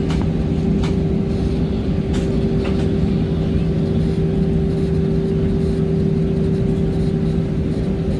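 Aircraft engine noise inside an airliner cabin: a loud, steady rush of engine and air with a constant hum, broken by a few faint clicks.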